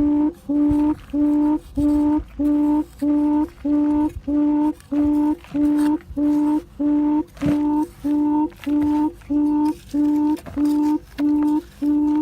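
Recorded bird call played through a small speaker as a trapping lure: one low hooting note repeated evenly, about two a second.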